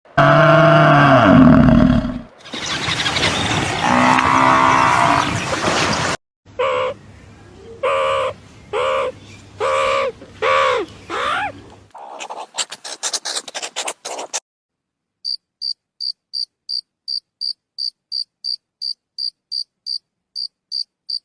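A run of different animal calls cut one after another: two longer pitched calls, then about six short calls that rise and fall in pitch, then a fast rattle. In the last third a cricket chirps steadily, about three high chirps a second.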